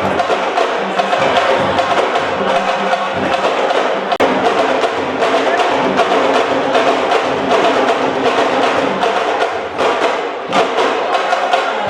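Rhythmic drumming with sharp, wood-block-like strikes over a dense, steady din.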